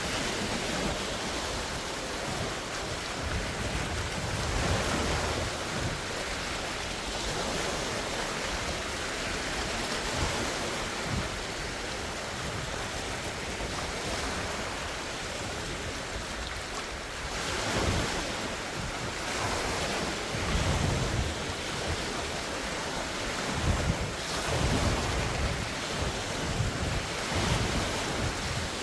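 Large wind-driven lake waves washing and splashing in a steady rush, with gusts of wind buffeting the phone's microphone as low rumbles several times, strongest in the last few seconds.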